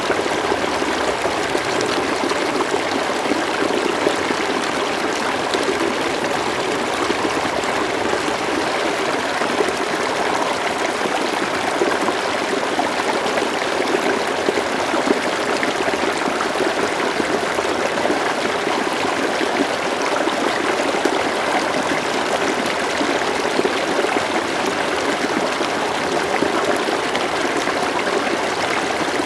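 River water flowing steadily, a continuous rush with fine trickling and splashing in it.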